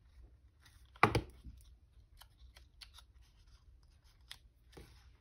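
Paper-crafting materials being handled on a work table: a sharp knock about a second in, then a run of small clicks and ticks, and a short scratchy rustle near the end.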